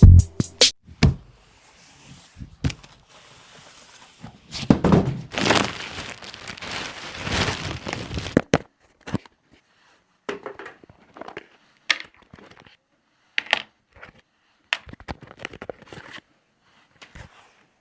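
Packaging being handled while a tower speaker is unboxed: cardboard and plastic crinkling and tearing for a few seconds in the middle, with scattered knocks and clicks before and after.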